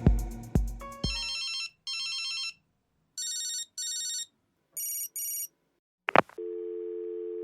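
An electronic drum beat dies away about a second in, then an electronic telephone ring sounds in short warbling bursts, mostly in pairs. About six seconds in a click like a handset being picked up, followed by a steady dial tone.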